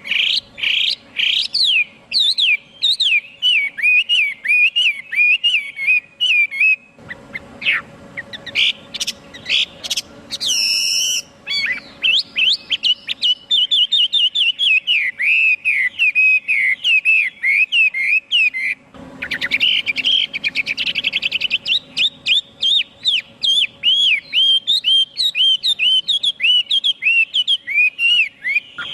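Chinese hwamei singing a long, rapid stream of varied, sweeping whistled notes. The song thins out for a few seconds about a quarter of the way in, with a few very high sweeping notes, then runs on densely.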